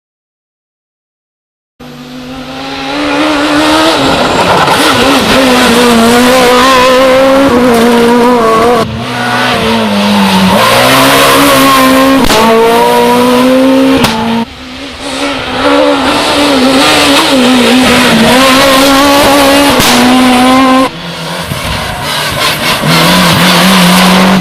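Silent for about the first two seconds, then rally cars running hard on a special stage, engines revving up and falling back through the gear changes. The sound breaks off abruptly three times as one pass gives way to the next.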